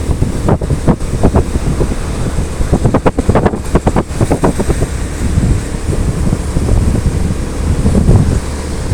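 Motorcycle running on the move, with wind buffeting the microphone in irregular gusts over a steady low rumble.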